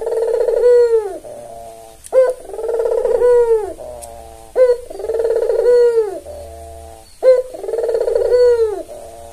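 White albino Barbary dove (puter) cooing: the same call repeated about every two and a half seconds, each a short rising note followed by a long rolling coo that drops away at its end.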